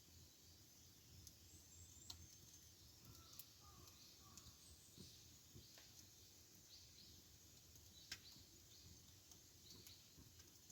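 Faint wood fire crackling: a few scattered sharp pops and ticks, the loudest about eight seconds in.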